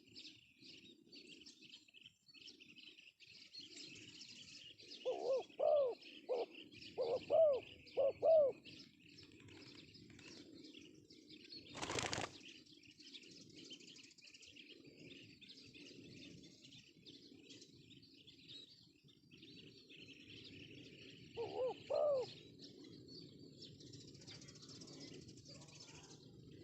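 Male spotted dove (tekukur) cooing: a phrase of about six rising-and-falling coo notes, then a short two-note coo near the end. The cooing is over steady high chirping of small birds, and a single sharp knock comes about twelve seconds in.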